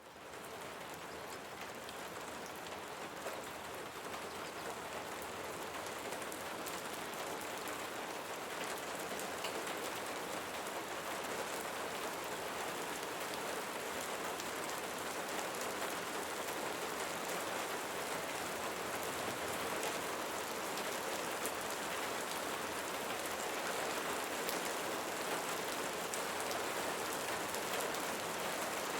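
Steady rain falling, an even hiss with scattered drop ticks, fading in at the start.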